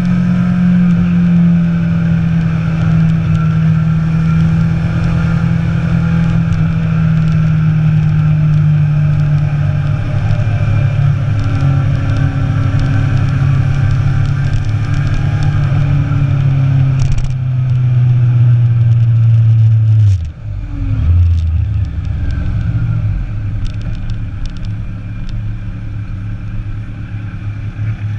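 Inline-four sport motorcycle engine running at road speed with wind noise, its note falling slowly over the first two thirds. About twenty seconds in the sound drops sharply for a moment, then the engine runs on at a steady lower note.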